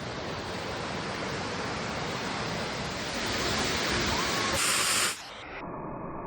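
Steady rushing roar of Materuni Falls, a waterfall plunging nearly 300 feet into its pool, swelling louder about three seconds in. About five seconds in it cuts off abruptly and a quieter, duller steady rumble takes over.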